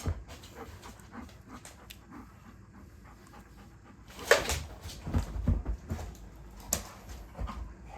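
A dog panting, with a few louder, noisy breaths from about halfway through.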